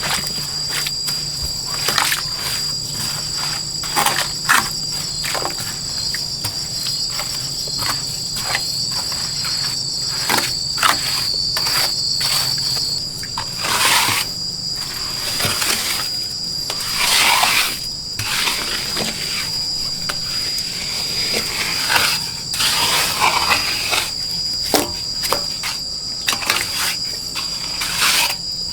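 Insects trilling steadily at a high pitch, with frequent sharp clicks and knocks and a few brief rustling or scraping sounds over it.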